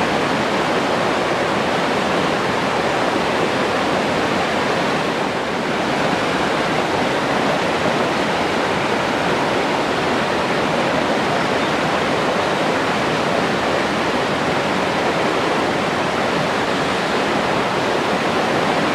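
Forest stream rushing over rocks, a steady, dense rush of water.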